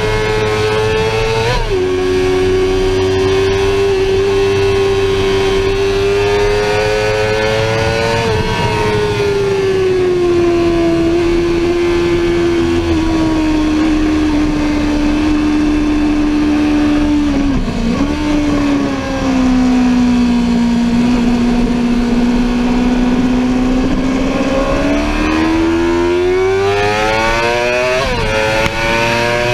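Sportbike engine running under way, its pitch sinking slowly through the middle with a brief dip about eighteen seconds in, then climbing steadily near the end as the bike accelerates.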